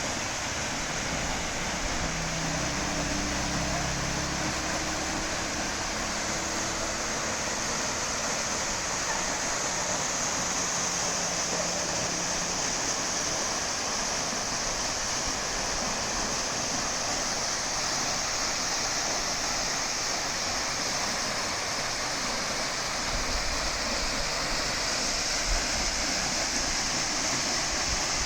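Waterfall: falling water rushing steadily and evenly without a break.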